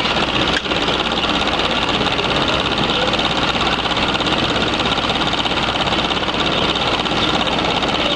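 Steady mechanical rattling hum with a fast, even flutter, broken by a brief click about half a second in.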